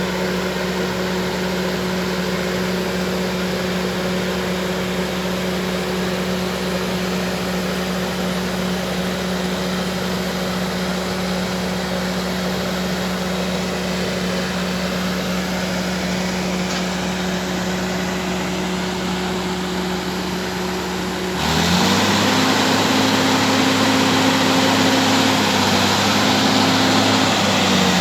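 Bulldozer's diesel engine running at a steady pitch. About three-quarters of the way through, the sound suddenly gets louder and the engine note rises higher and wavers up and down, as under load or revving.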